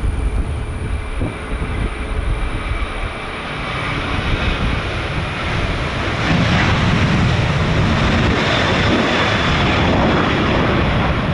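Jet airliner engines running, a dense rumbling roar that grows louder about six seconds in and then holds steady, with wind buffeting the microphone.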